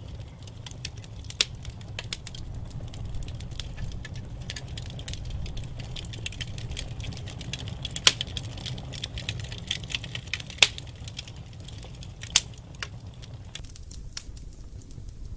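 Fire crackling in a fireplace: a steady low rumble and hiss of the flames with frequent small pops and a handful of sharper, louder snaps.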